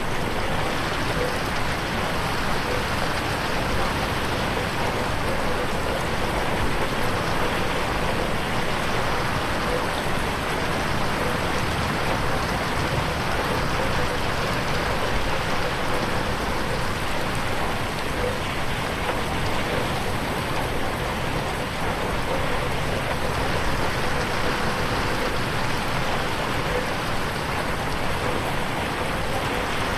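Steady rain falling on a window, a dense even hiss of drops.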